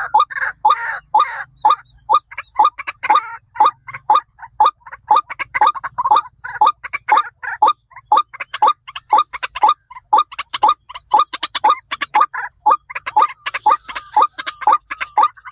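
A bird calling over and over in a rapid series of short, sharp notes, about three a second, without a pause.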